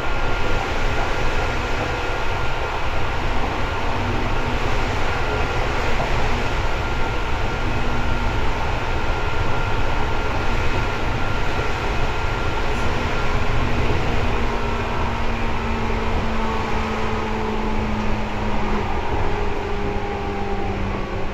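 Seibu 2000 series electric train running, heard inside the car above the underfloor line breaker: a loud, steady rumble of wheels on rail and motor drive. Faint whining tones drift slowly in pitch in the second half.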